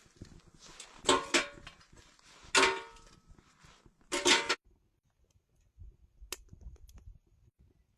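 A few sharp metallic clanks, each ringing briefly, three loud ones in the first half, followed by a single sharp click a couple of seconds later.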